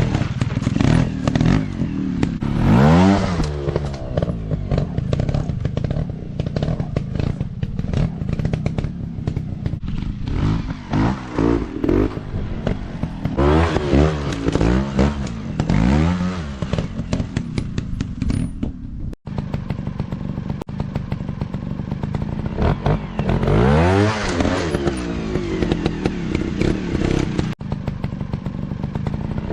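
Dirt bike engine revving up and easing off over and over as it is ridden hard, with clattering and scraping mixed in.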